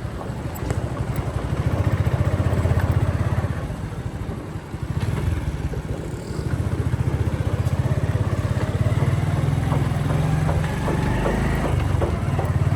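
Motorcycle engine running under way, with a rapid low exhaust pulse; it eases off about four seconds in, then picks up again and holds steady.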